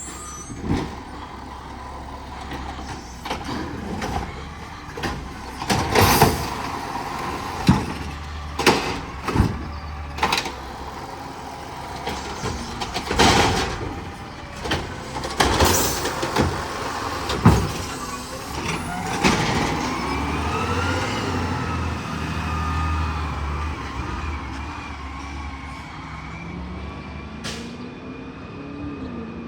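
Garbage truck at work, a series of loud metallic clanks and bangs over the first two-thirds, then a whine that rises and falls in pitch, with a rising tone near the end.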